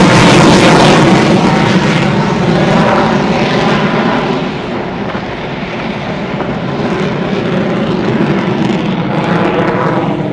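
Airplane flying past, loud at first, then fading and duller over the next few seconds as it moves away before holding at a lower level.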